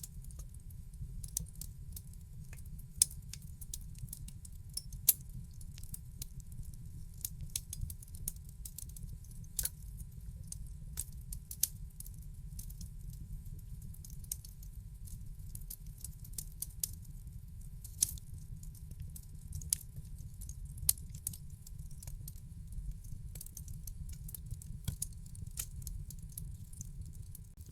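Wood fire in a fireplace crackling: irregular sharp pops and snaps over a low steady rumble, with a few louder pops standing out.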